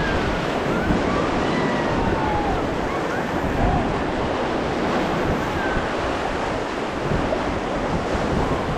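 Whitewater rushing and crashing around and over a raft running a Ganga river rapid, with wind buffeting the microphone. A few faint cries can be heard over the rush of water.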